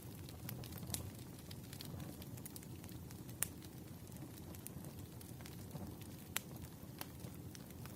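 Firewood burning in a campfire: a steady low rumble with scattered sharp crackles and pops, the loudest at about three and a half and six and a half seconds in.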